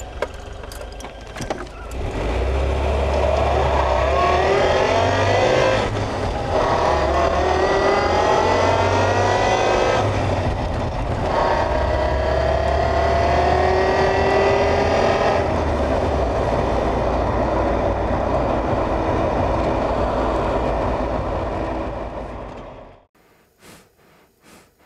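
Car engine accelerating through the gears: the engine note climbs three times, dropping back at each gear change, then holds steady and fades before cutting off abruptly near the end.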